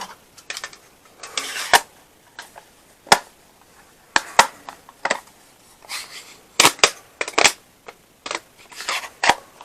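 Workshop tools and parts being handled and set down: about a dozen irregularly spaced sharp clacks and knocks, some with a brief scraping rustle.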